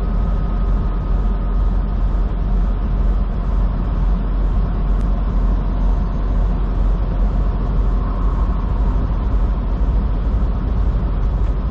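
Semi truck running down the highway, heard from inside the cab: a steady, loud mix of engine and road noise, heaviest in the low end, with no change in pace.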